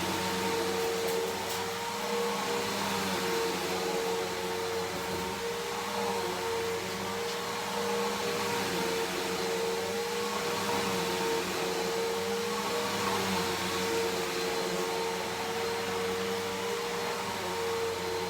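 Bissell PowerForce Helix Turbo upright vacuum running steadily: an even motor whine over the rush of air.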